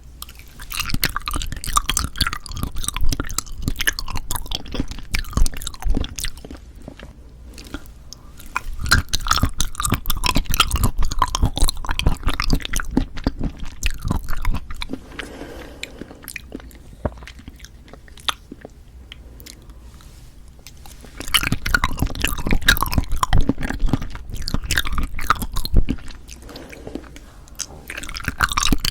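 Close-miked wet chewing of Cheonhyehyang citrus cup jelly, with dense clicky mouth sounds in three spells separated by quieter pauses.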